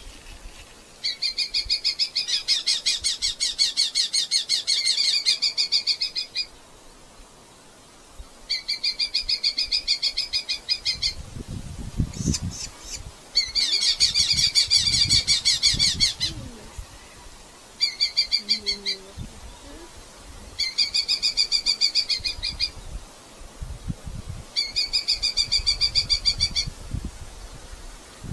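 Red-footed falcon calling: rapid chattering series of shrill repeated notes, in bouts of a few seconds, about seven times over, with a few low bumps between bouts.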